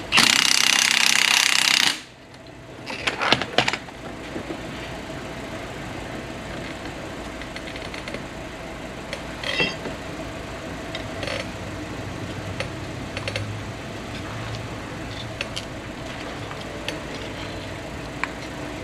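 An impact wrench hammers in one loud burst of about two seconds, working on the strut during spring removal. A few metal clicks and clinks of tools follow, then a steady low background.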